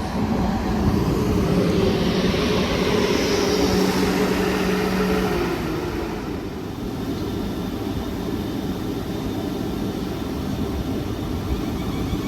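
Electric multiple-unit train passing through the station, its motor hum and wheel-and-air noise swelling and then fading away about six seconds in.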